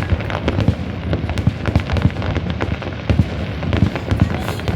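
Fireworks display: a dense, unbroken run of bangs and crackles, with heavier booms a little past the middle.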